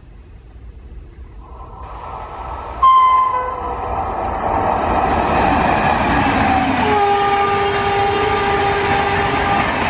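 Electric express train passing at speed, its rumble swelling as it comes in. The locomotive's horn gives a short loud blast about three seconds in, then sounds again, held for nearly three seconds over the roar of the coaches.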